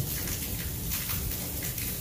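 Steady rain falling in a thunderstorm, with a low rumble underneath.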